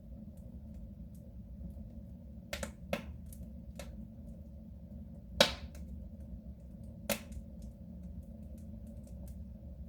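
Wood fire burning in a soapstone stove, crackling over a steady low rumble, with a few sharp pops, the loudest about halfway through.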